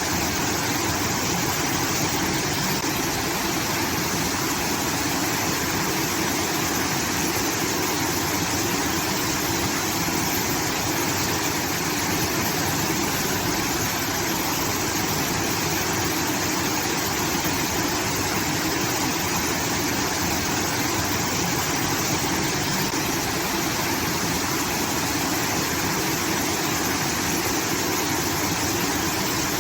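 Water pouring steadily from a rice-field irrigation outlet, a continuous rushing like a small waterfall.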